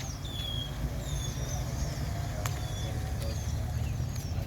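A steady low rumble with small birds chirping repeatedly over it, and a single sharp click about halfway through.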